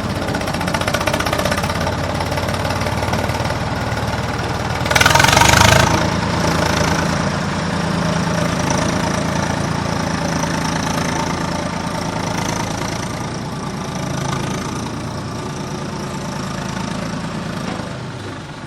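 Simulated diesel tractor engine sound from a toy RC tractor's sound module, running steadily, with a short loud hissing burst about five seconds in.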